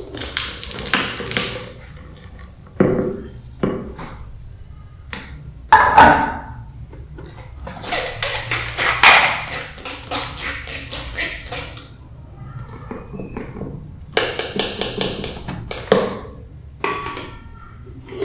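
Kitchen utensils tapping and clinking against dishes, in quick runs of sharp clicks, with a few short vocal sounds in between.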